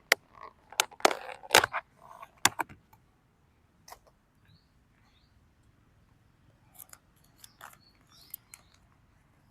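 A quick series of sharp clicks and knocks from objects being handled, bunched in the first three seconds, followed by a few faint scattered clicks.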